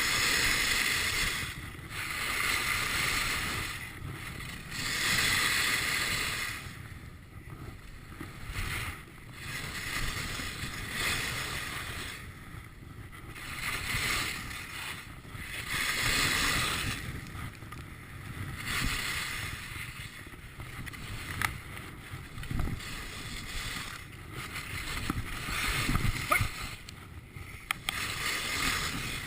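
Skis swishing and scraping across the snow through a series of turns, a hissing sound that swells and fades every second or two.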